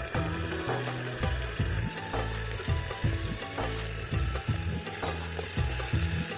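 Food sizzling as it fries in an electric kettle, with a spoon knocking against the pot again and again as it is stirred.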